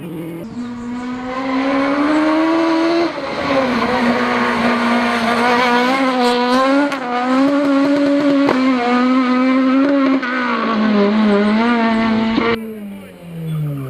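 Rally car engine running hard at high revs, its pitch held fairly steady with a brief dip about three seconds in. Near the end the revs fall away, then climb again.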